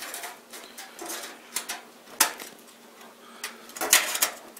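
Thin metal I/O shield being pressed into the rear opening of a computer case: a few sharp clicks and taps as it is pushed into its corners, the loudest cluster near the end.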